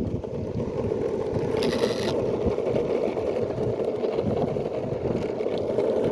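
Skateboard wheels rolling steadily over asphalt, a continuous gritty rumble.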